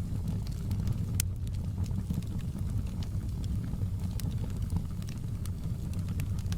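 Wood fire in a fireplace crackling, with scattered small pops over a steady low rumble and one louder pop about a second in.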